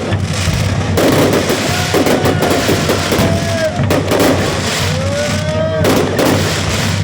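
Fireworks going off in quick succession: bangs and dense crackling, with whistling shells, one rising in pitch near the end, over background music.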